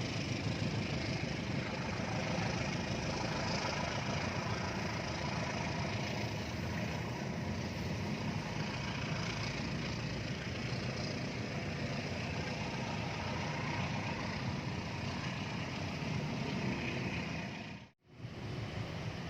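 A heavy engine running steadily, with a constant rumble and no revving. The sound drops out abruptly for a moment near the end.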